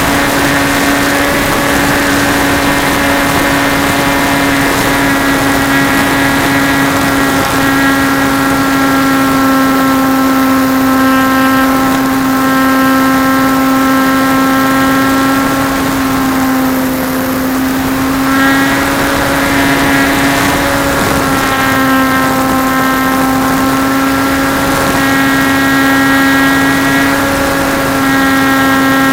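Trojan T-28 RC model plane's motor and propeller running at a steady high whine, easing off briefly just past halfway before picking up again.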